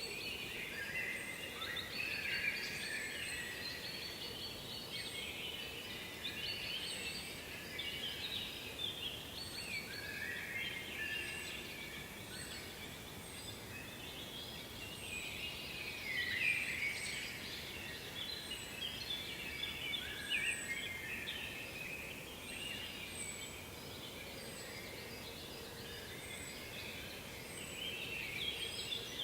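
Several songbirds singing, with dense warbling phrases overlapping throughout and a thin, very high call repeated about once a second, over steady background noise.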